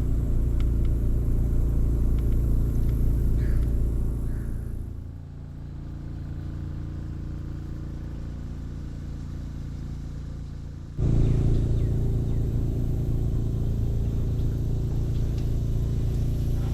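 Boat motor running steadily under way, a low, even rumble. About four seconds in it eases down and runs quieter, then about eleven seconds in it comes back loud all at once.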